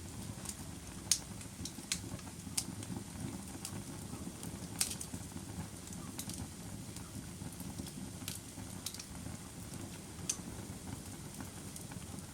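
A fire burning with a steady low rush of flames and sharp crackling pops at irregular intervals, about a dozen of them.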